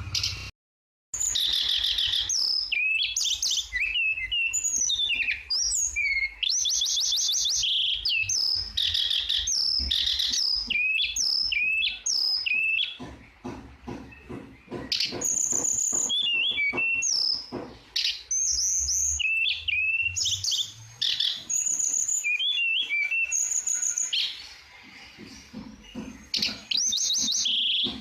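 A tledekan songbird singing a long, varied song of sweeping whistles and fast rattling trills, broken by short pauses, with a brief dead-silent splice just after the start.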